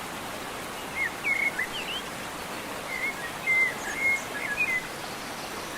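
Songbird chirping in short whistled phrases, a bout about a second in and another from about three seconds, over a steady background hiss.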